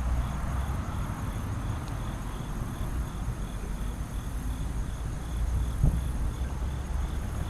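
Insect chirping in an even pulsing rhythm, about two to three pulses a second, over a steady low rumble, with a single small knock near the end.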